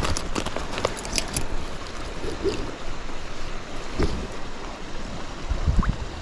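Stream water running steadily around a wading angler, with a quick flurry of splashes and drips in the first second and a half as the hooked trout is handled at the surface. A couple of low thumps follow, about four seconds in and near the end.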